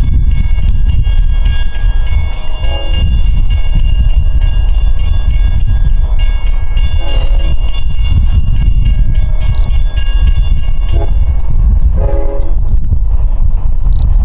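An LIRR express led by an EMD DM30AC diesel locomotive passes with a train of bi-level coaches, making a loud, heavy rumble of engine and wheels. Over it a grade-crossing bell rings steadily and stops about eleven seconds in.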